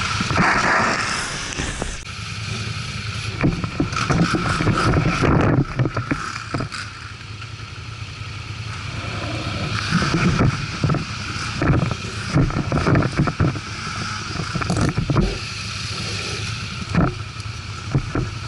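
ATV engine running, with many short knocks and thumps through the whole stretch.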